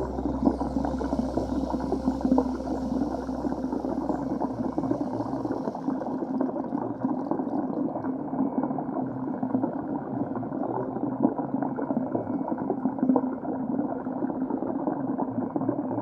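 Muffled underwater bubbling and rushing water, as heard by a submerged camera, with a steady low hum throughout; a deeper rumble fades out about six seconds in.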